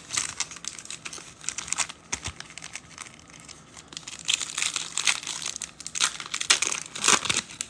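Foil trading-card pack wrappers crinkling and tearing as a pack is opened: a run of quick crackly rustles, busiest in the second half.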